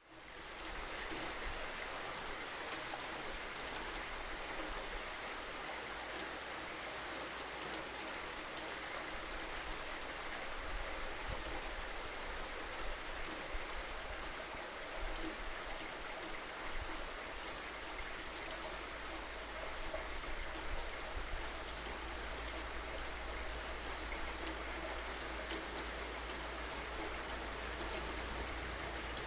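Steady rain falling, an even hiss of many drops with small irregular patters, fading in over the first second.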